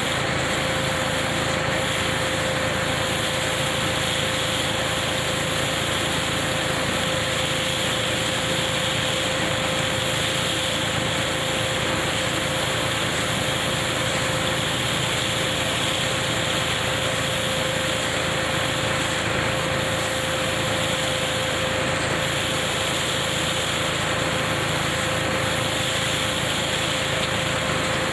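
KF-501 hazelnut harvesting machine, driven by a tractor, running steadily with a constant engine-and-machinery noise and one clear held tone.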